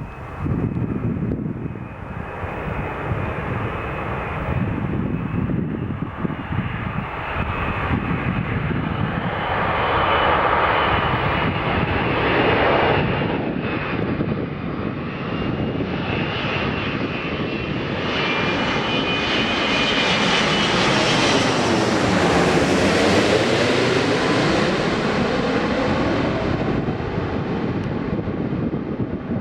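Airbus A380-800 on its landing approach passing close by, its four Engine Alliance GP7200 turbofans giving a steady roar with a high whine. The sound swells to its loudest about two-thirds of the way through, with a sweeping swoosh that falls and rises in pitch as the jet goes past.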